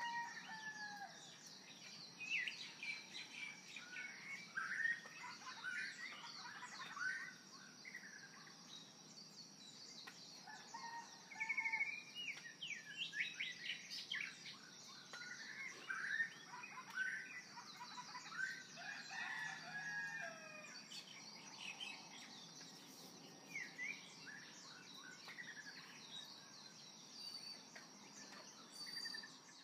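Many birds chirping and calling together, a busy chorus of short chirps and quick pitch glides, over a faint steady high tone.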